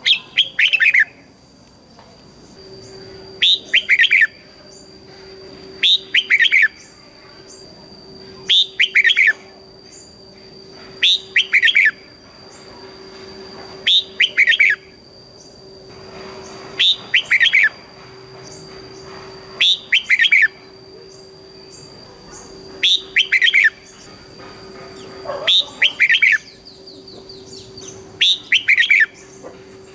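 Red-whiskered bulbul singing: a short, quick warbled phrase repeated about every three seconds, eleven times. A faint steady high whine runs underneath.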